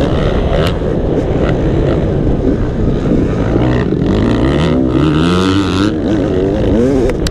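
Motocross dirt bike engine running loud, its pitch climbing and dropping again and again as the throttle is opened and closed.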